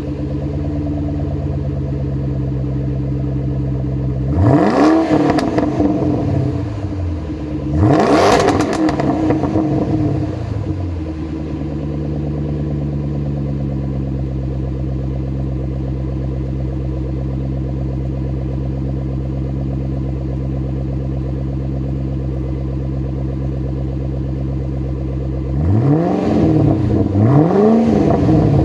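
2009 Shelby GT500's supercharged 5.4-litre V8 with a Ford Racing exhaust idling steadily, blipped twice with single revs about five and eight seconds in, then three quick revs near the end, each rising and falling back to idle.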